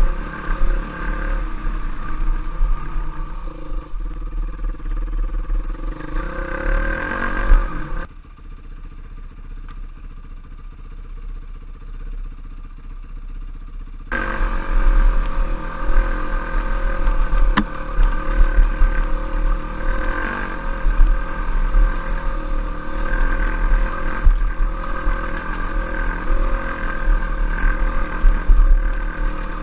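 Trail bike engine running as it is ridden, with wind rumbling on the microphone. About eight seconds in the sound drops to a much quieter engine hum, and about six seconds later it comes back to full volume.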